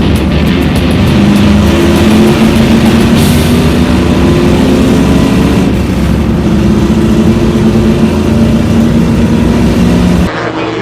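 Race car engines running on a track, mixed with background music. The sound changes abruptly near the end.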